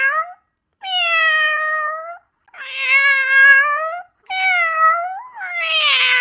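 Tabby house cat meowing: about four long, drawn-out meows in a row, each lasting over a second, with short breaks between.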